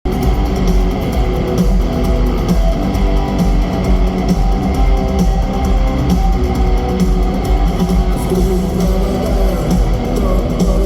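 Rock band playing an instrumental passage, electric guitars and bass over a steady drum beat, loud and continuous.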